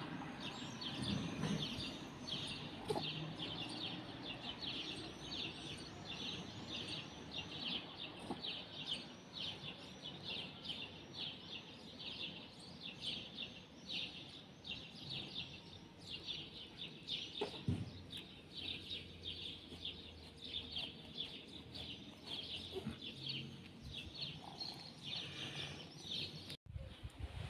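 Small birds chirping steadily in a quick run of short, high chirps, several a second; it cuts off suddenly near the end.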